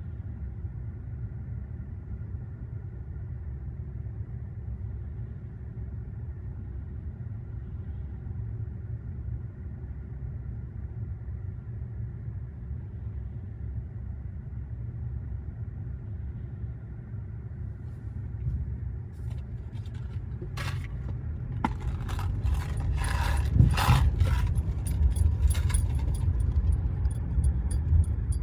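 Steady low rumble of a car driving, growing louder in the last third, with a cluster of clicks and scraping knocks and then a fast run of faint high ticks near the end.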